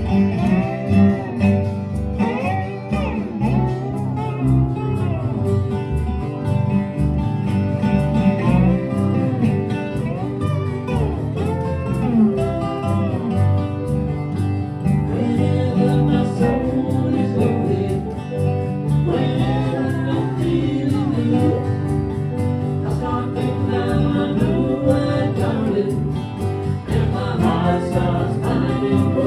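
Bluegrass band playing live: acoustic guitar and other plucked strings under a sung melody.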